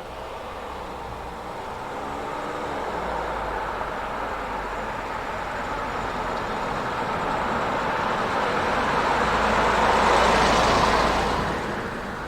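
A vehicle approaching and passing close by: the noise grows steadily louder to a peak about ten seconds in, then falls away quickly.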